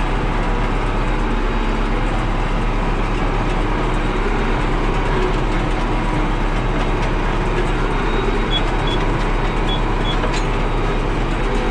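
Tractor engine running steadily while pulling a round baler through the hay. Four short high beeps sound about two-thirds of the way through.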